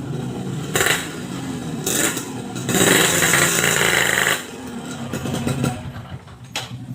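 Motorcycle engine running through an aftermarket boban exhaust, revved in short blips about one and two seconds in, then held up for about a second and a half before dropping back to an uneven idle.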